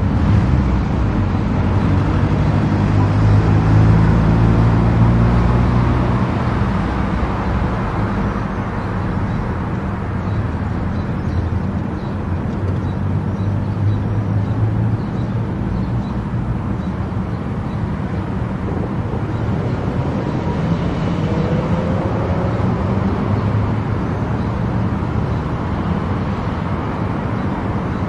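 Car travelling at speed on an expressway: steady engine and tyre-on-road rumble, a little louder a few seconds in.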